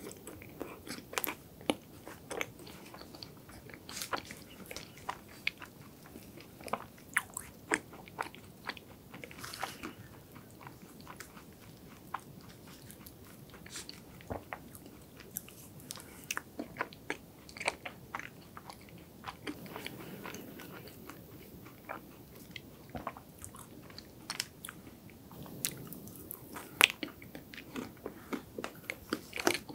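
Close-miked mouth sounds of eating ice cream cake with crisp wafer pieces: wet chewing broken by irregular sharp crunches and clicks.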